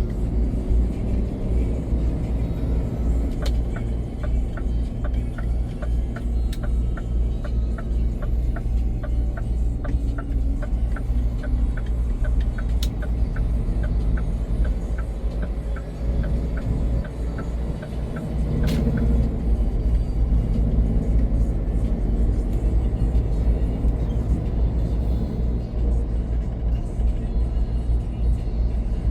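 Scania truck cab while driving: steady engine and road rumble, with the turn-signal indicator ticking about two to three times a second from a few seconds in until about two-thirds of the way through.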